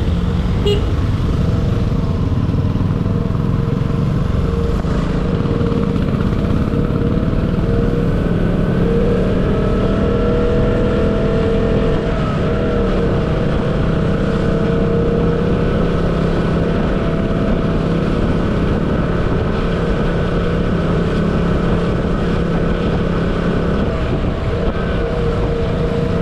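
Motorcycle engine running steadily at cruising speed, with wind and road noise over it.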